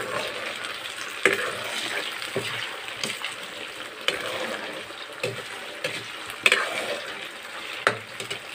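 Banana slices sizzling as they deep-fry in oil in a wok, stirred with a metal ladle that knocks and scrapes against the pan every second or two.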